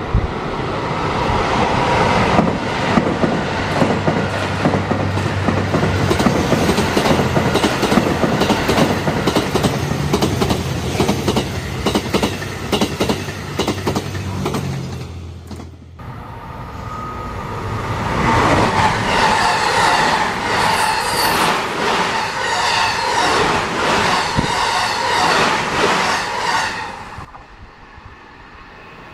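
A train running on rails, its wheels clattering rapidly and rhythmically over rail joints. About halfway the sound fades and breaks off abruptly. A second run then rises with a steady whine over the clatter and fades out near the end.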